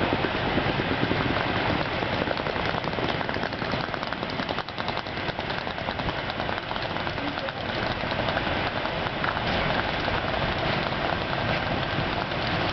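EP2K electric locomotive hauling a passenger train into the station: steady rolling noise of wheels on rails, with many fine clicks, dipping slightly about four to five seconds in.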